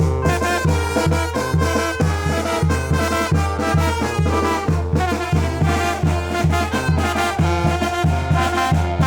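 Mexican brass band (banda de viento) playing a chilena: trumpets and trombones on the melody over a pulsing low bass line.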